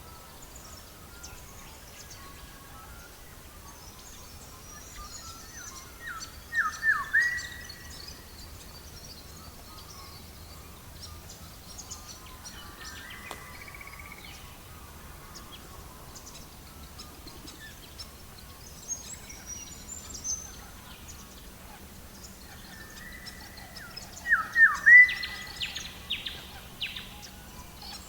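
Birds calling over a steady low background hiss. Twice, about six seconds in and again near the end, comes a short loud burst of quick descending notes, with faint high chirps scattered in between.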